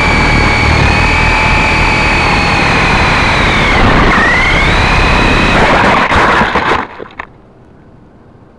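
Syma S033G coaxial R/C helicopter's electric motors and rotors whining close up, with rotor buffeting underneath. The pitch dips about four seconds in and comes back up, then the motors cut out about seven seconds in with a couple of short knocks, leaving a faint hiss.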